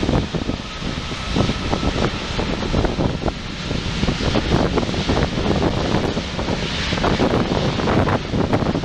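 Jet engines of a wide-body airliner at LAX, running as one steady, loud noise with no clear change in pitch.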